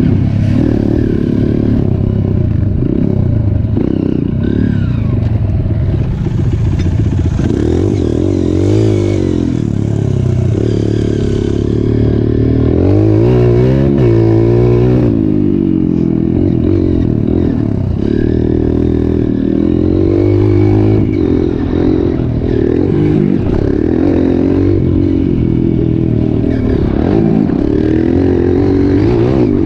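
Trail motorcycle engines running and revving, their pitch rising and falling again and again as the bikes ride.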